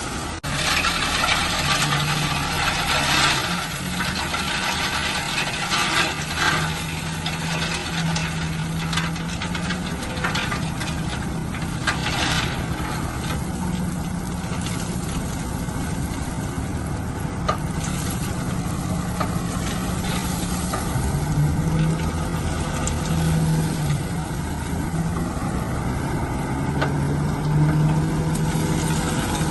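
Heavy construction machine's engine running steadily, its note strengthening and easing at times, with scattered sharp knocks and rattles.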